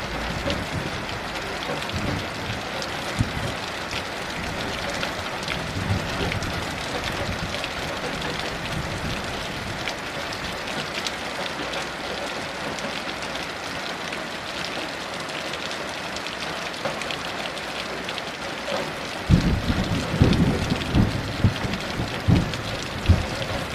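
Steady heavy rain falling. Near the end, low rolling thunder rumbles in over it.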